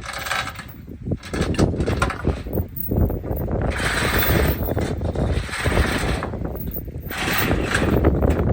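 Metal mechanism rattling and clanking in uneven bursts, with ratchet-like clicking.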